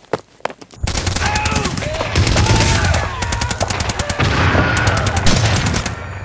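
Sound effect of rapid automatic gunfire. A few scattered sharp cracks come first, then dense, sustained bursts of machine-gun fire start about a second in, with a short break partway through.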